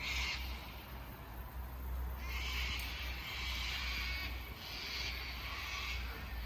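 A flock of sulphur-crested cockatoos screeching: harsh, raspy calls, with a long one about two seconds in and several shorter ones after.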